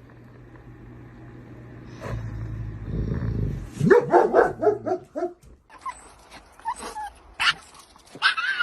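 Dog barking: a quick run of about six barks midway, after a few seconds of low hum, followed by a few scattered shorter sounds.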